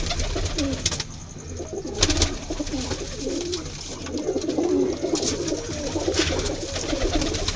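Several domestic pigeons cooing together, their low warbling coos overlapping throughout, with a few brief sharp noises among them.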